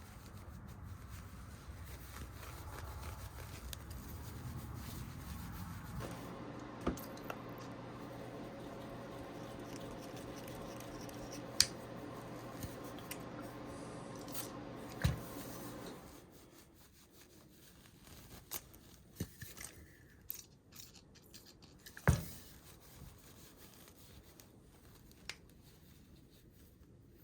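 Electric polishing motor running with a steady hum for about ten seconds while the knife's brass bolsters are buffed with red compound, then switching off. Afterwards a few sharp clicks and knocks as the knife is handled.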